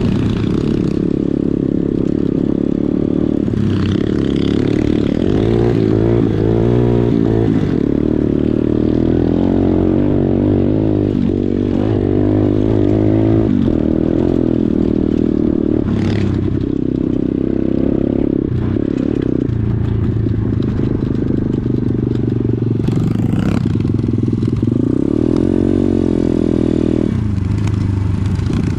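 Pit bike engine running steadily, its pitch rising and falling as the throttle is worked, with a couple of short knocks.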